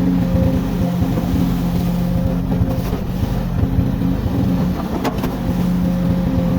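Komatsu excavator's diesel engine running steadily, with a couple of short sharp knocks about a third of the way in and about five seconds in.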